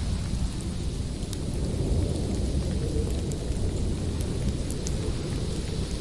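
Storm wind blowing steadily as a deep rumbling noise, with the small, scattered pops and crackles of a wood fire burning in a fireplace.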